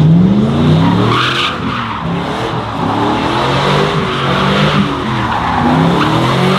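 Truck engines revving up and down repeatedly over a steady hiss of tyre noise, typical of trucks doing burnouts.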